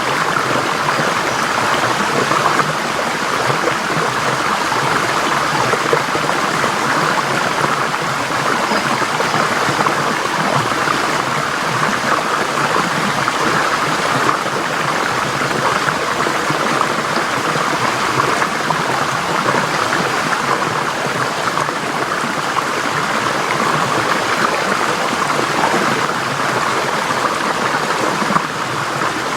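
Forest stream flowing over stones, a steady, even rushing and burbling of water.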